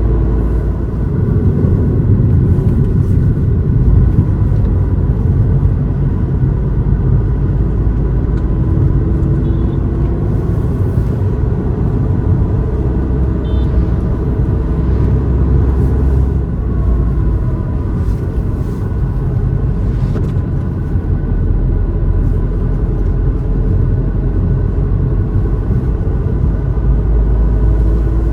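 Car driving along a winding ghat road: a steady engine and road rumble that holds at an even level, with no sudden events.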